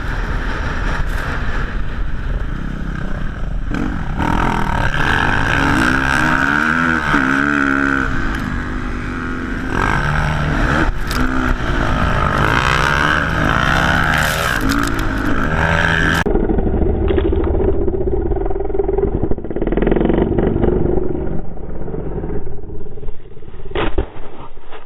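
Dirt bike engines revving, their pitch rising and falling as the throttle is worked, with wind buffeting the microphone. About two-thirds of the way through, the sound changes abruptly to a duller, steadier, lower engine drone, which turns uneven and quieter near the end.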